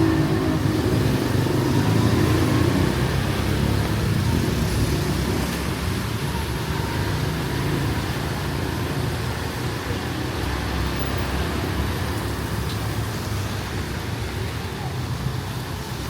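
Street traffic: a motor vehicle's engine running close by, loudest at first and fading gradually as it moves off, over steady roadway noise.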